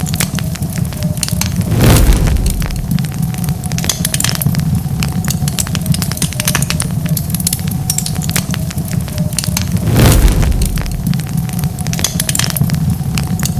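Wood fire crackling: many small sharp pops and snaps over a steady low rumble, with two louder bursts, one about two seconds in and another about ten seconds in.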